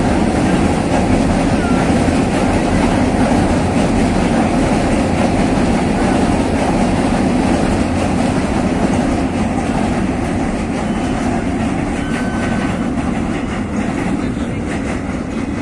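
Train crossing a railway bridge: a steady, loud rumble of wheels on the rails that eases off slightly near the end.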